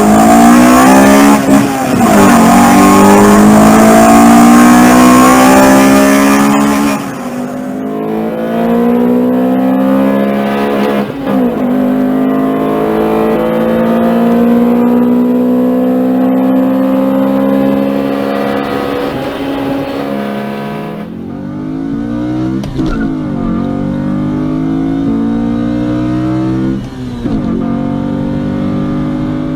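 Four-cylinder performance car engine accelerating hard through the gears. The pitch climbs steadily and drops sharply at each upshift, several times over.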